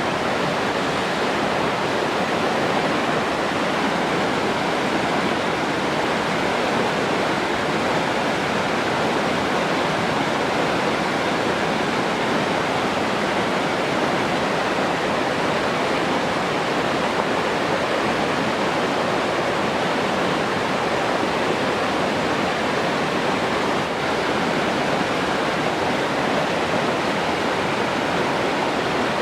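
Rushing water, a steady unbroken wash of noise with no changes.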